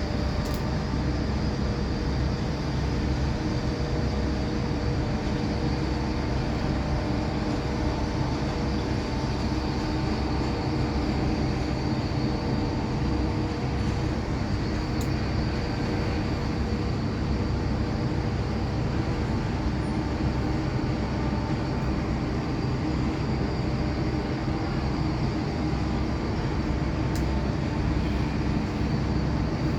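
Steady machinery rumble with several constant humming tones over it, unchanging in level.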